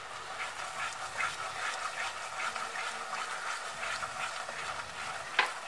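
Ground dry-fruit paste sizzling in ghee in a wok while a wooden spatula stirs it, with soft scraping ticks and one sharp knock of the spatula near the end.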